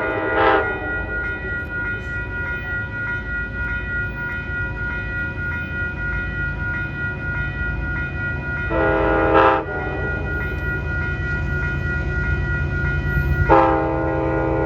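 Passenger train's locomotive horn sounding three blasts over the steady rumble of the train running: one trailing off just after the start, one about a second long around the middle, and another starting near the end.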